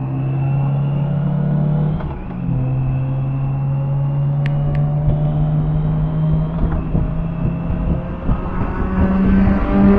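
BMW K1600B's six-cylinder engine running at a steady road speed, its pitch dropping sharply about two seconds in and then holding even. Near the end a second, higher engine note grows louder.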